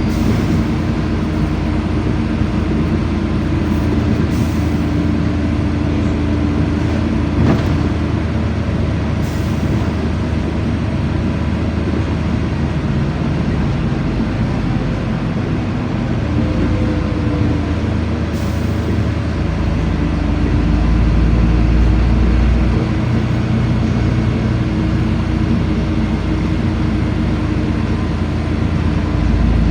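Ride inside a LiAZ-5292.65 city bus: steady engine and road noise, with a low rumble that grows heavier about two-thirds of the way through as the engine pulls.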